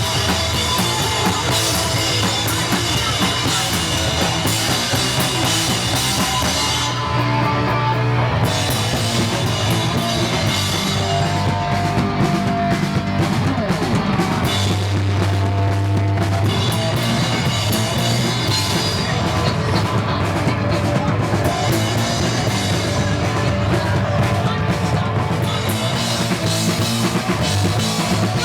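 Punk rock band playing live: drum kit pounding under electric guitar, loud and dense throughout. The cymbals and top end drop out for about a second and a half some seven seconds in, then the full band comes back.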